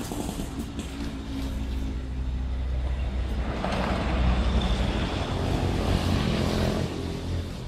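Motor vehicle engine running with a low steady hum, joined by road noise that grows louder from about three and a half seconds in and eases near the end.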